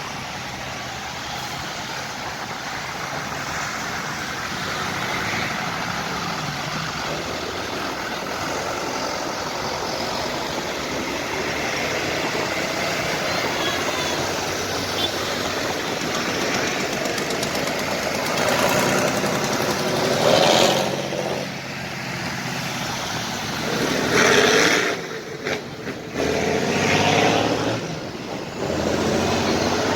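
Tractor engines running as tractors drive past, with a steady engine drone. In the second half it grows louder several times as tractors pass close by.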